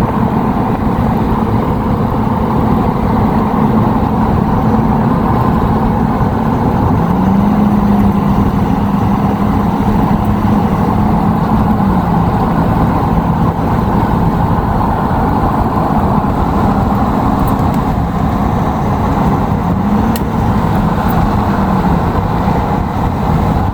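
A vehicle driving on the road, heard from inside the cab: steady road and engine noise. The engine's low hum rises and falls back twice as the speed changes.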